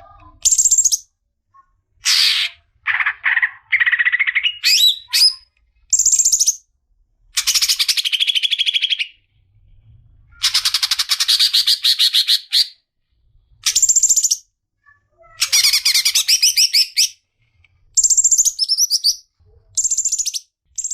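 Cucak ijo (green leafbird) singing in a long run of high, rapid chattering phrases, each half a second to two seconds long, with short breaks between them.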